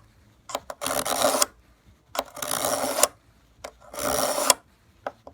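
A steel ice auger blade drawn through a hand-held Berkley knife sharpener in three long rasping strokes, each with a short click as the blade goes in. The even rasp shows the edge is being ground sharp.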